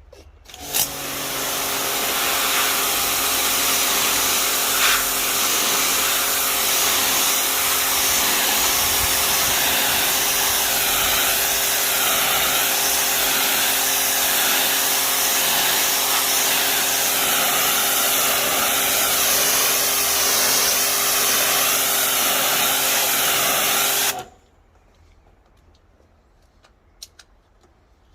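Wilks RX 550i electric pressure washer running with its nozzle on the 40 setting: a steady motor-and-pump hum under the loud hiss of the water jet. It starts about a second in and cuts off sharply near the end when the trigger is released.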